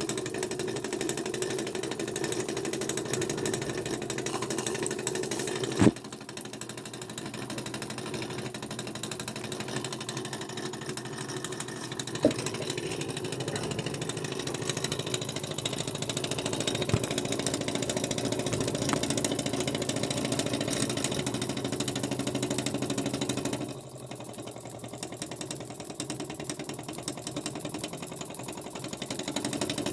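Burnac Vulcan-model toy steam engine running with a rapid, steady mechanical clatter. It gets quieter twice, about six seconds in and again near the end, and there is a sharp click about six seconds in and another about twelve seconds in.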